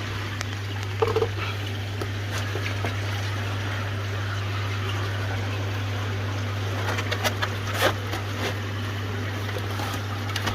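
Koi pond filter system running: a steady low hum with water trickling. A few short knocks and rustles sound about a second in and again around seven to eight seconds.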